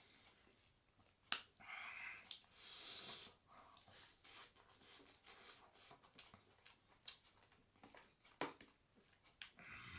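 Close-miked eating sounds: irregular sharp mouth clicks and smacks with short bursts of chewing noise.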